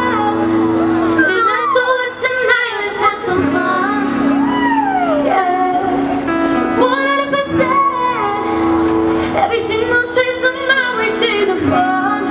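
Female voices singing a melody over an accompaniment that holds sustained chords, in an acoustic sound-check run-through.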